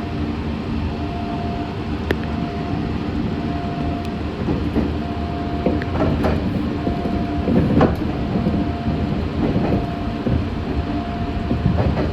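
Meitetsu 6500 series electric train running, heard from inside the car: steady low running noise, with a faint tone that comes and goes about every second and a half, and a few sharp clicks from the wheels.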